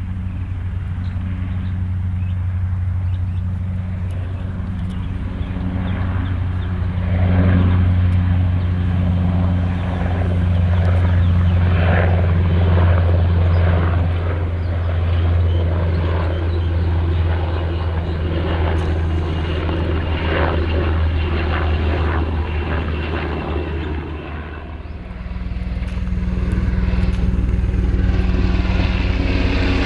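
Aircraft engines running with a steady low drone; the sound dips briefly and its low hum shifts about 25 seconds in.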